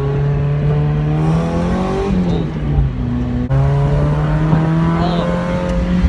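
Mazda Miata's four-cylinder engine pulling as the car drives off. Its pitch climbs, drops about two seconds in as if at a gear change, then holds fairly steady. With the header exhaust leak sealed, the engine is sounding normal.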